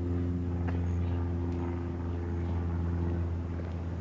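An engine running at a steady low drone, holding one even pitch.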